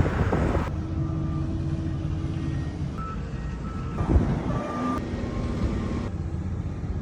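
Steady low rumble of a vehicle on the road, heard from the car, with a few faint short beeps now and then.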